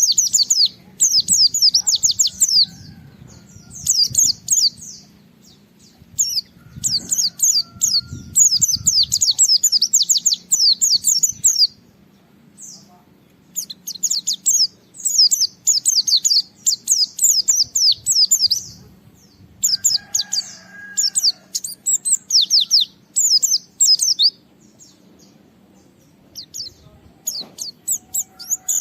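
Pleci (white-eye) singing hard in quick, high, trilled phrases about a second long, repeated with short pauses between them. This is the 'gacor' song that bird keepers play to provoke other white-eyes into singing.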